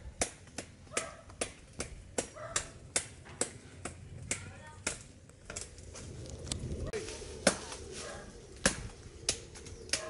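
Repeated chopping blows of a blade on wood, sharp single strikes about two or three a second, slowing to a few widely spaced blows in the second half.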